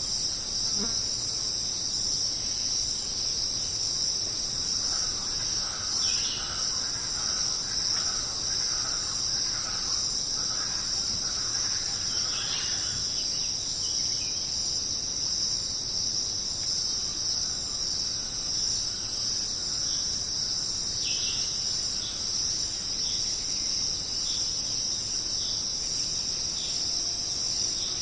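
Dense, steady high-pitched insect chorus of a tropical jungle, with a run of short repeated lower calls from about 5 to 13 seconds in and a few brief chirps scattered through.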